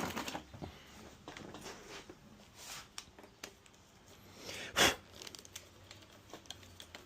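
Hands working on motorcycle handlebar parts: scattered light clicks and rustles, with a louder brief rustle just before five seconds in.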